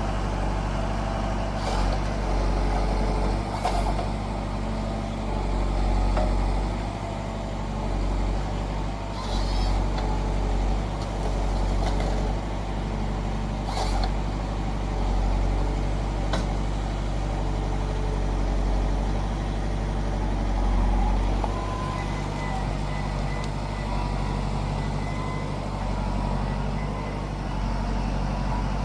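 Forestry harvester's diesel engine running steadily under load, with a few sharp knocks and clicks from the machine and its head at work, and a thin whine later on.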